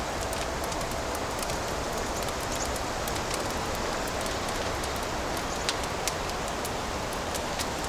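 Fireplace fire crackling: a steady hiss with scattered sharp pops and crackles, two of them a little louder past the middle.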